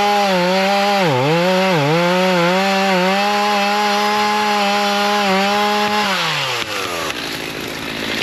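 Chainsaw at full throttle cutting cedar, its engine pitch dipping twice about a second in as it takes load, then dropping back to idle about six seconds in.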